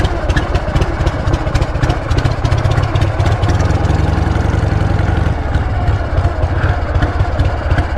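Motorcycle engine idling steadily in a fast, even pulse while it warms up after a cold start on choke. A deeper rumble swells for a few seconds in the middle.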